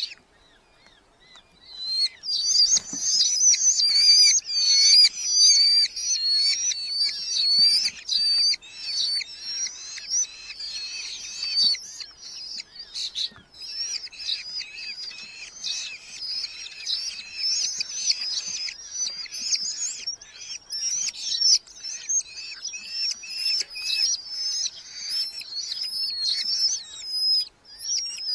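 Red-footed falcon chicks calling together in a dense chorus of rapid, repeated, high-pitched calls. The calls start about two seconds in.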